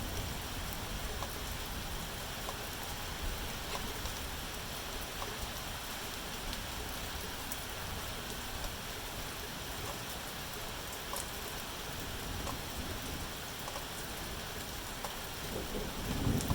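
Steady rain falling, with scattered faint drop ticks. Near the end a low rumble of thunder begins to build.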